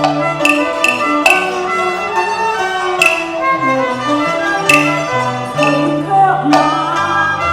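Instrumental interlude of Cantonese operatic song accompaniment: a bowed string melody over a bass line, with sharp struck or plucked notes throughout.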